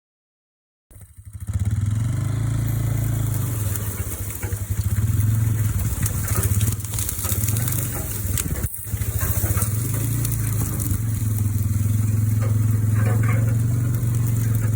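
A motor vehicle engine running steadily at a constant speed. It starts abruptly about a second in and breaks off briefly just before the middle.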